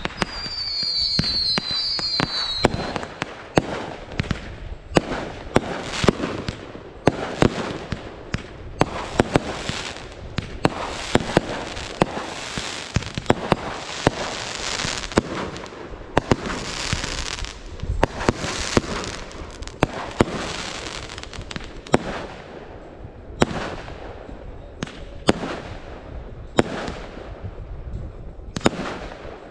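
Fireworks going off: many sharp bangs throughout, with stretches of dense crackling in the middle. A high warbling whistle sounds over the first few seconds.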